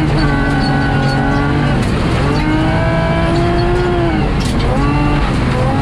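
BMW M3 rally car's engine under hard driving, its pitch climbing steadily then dropping about two seconds in, climbing again, and falling and rising twice more near the end as the driver shifts and lifts.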